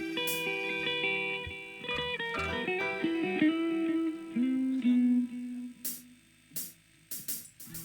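A guitar played through the sound system at a sound check: a string of single notes and chords that ring on. In the last couple of seconds there are only a few short, sharp hits.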